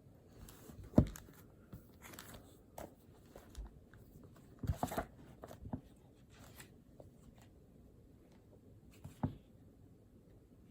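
Scattered knocks and rustles of desk work in a small quiet room: a sharp knock about a second in, a cluster of rustles and knocks around the middle, and another knock near the end.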